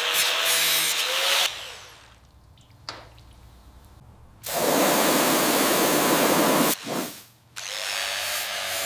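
A cleaning tool running in three bursts of steady hissing noise, with short pauses between them.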